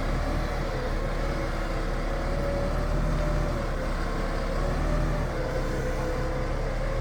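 Engine of a heavy 16-ton forklift running steadily under load as it lifts a large lathe high on its forks, with a tone that wavers slightly in pitch above the rumble.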